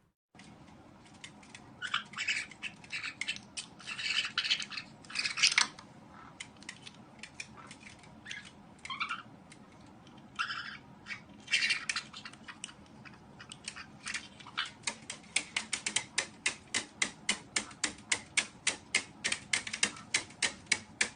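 Small parrot chirping and squawking in short bursts, followed by a quick, even run of sharp taps, about three a second, over the last few seconds.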